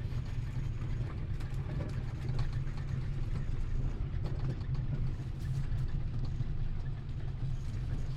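A motor engine running steadily with a low, even hum, and faint clicks and rattles over it.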